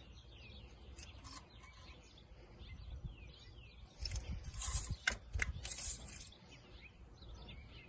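Faint birds chirping outdoors. About four to six seconds in, there is a short spell of rustling and scraping with a couple of sharp clicks.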